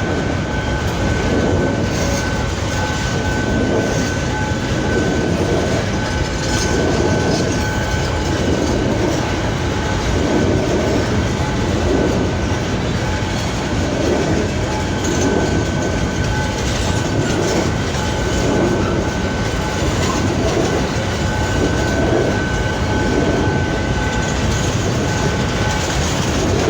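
Freight train wagons rolling past, their wheels clattering over the rail joints in a steady repeating rhythm about once a second. A thin, steady high tone runs through it.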